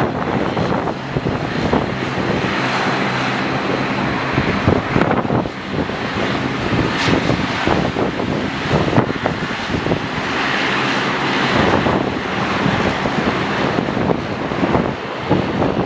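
Gusty wind buffeting the microphone over the steady engine noise of an airliner at the airport.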